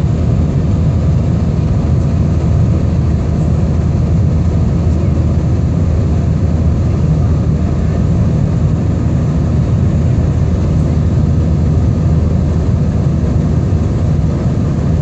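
Steady low rumble of a jet airliner's engines and rushing air, heard from inside the passenger cabin on takeoff.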